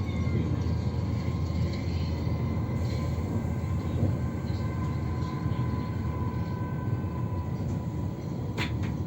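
AVE high-speed train running steadily at speed: a continuous low rumble with a faint steady whine above it, and a brief click near the end.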